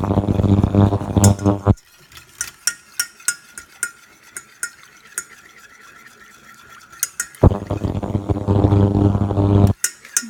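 A whisk beating béchamel sauce in a saucepan, with quick, irregular clicks as it knocks the pan. Twice, near the start and again near the end, a loud steady electric hum comes in for about two seconds and cuts off suddenly.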